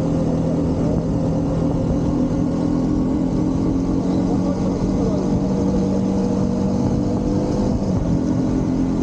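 Motorcycle engine running at a steady speed while riding, with a rush of wind and road noise underneath. The pitch shifts slightly near the end.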